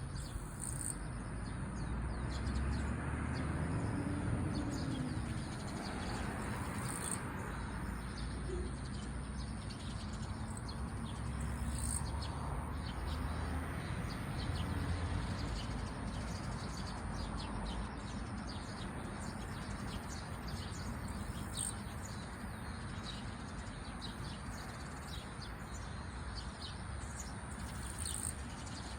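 Small birds chirping and tweeting in short calls, over a steady low background rumble.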